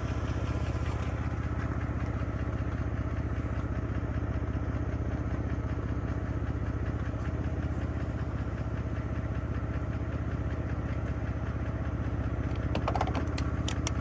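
Car engine running steadily, heard from inside the car, with a low even hum that holds its pitch. A few sharp clicks come near the end.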